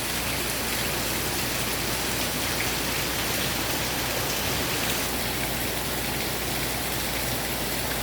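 Heavy rain pouring down steadily in an even, dense hiss.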